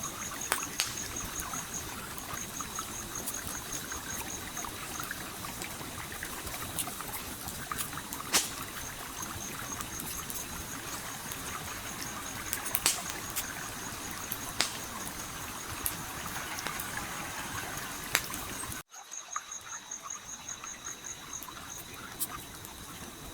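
Campfire crackling, with scattered sharp pops, over the steady rush of a flowing stream. An insect chirps in a high, rapid pulsed trill in several runs. Near the end, all sound cuts out for an instant and then resumes.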